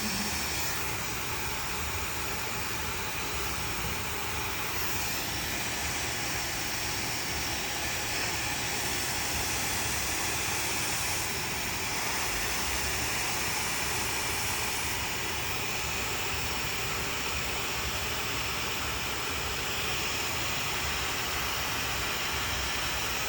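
Handheld hair dryer running steadily during a blow dry, a constant hum of blown air.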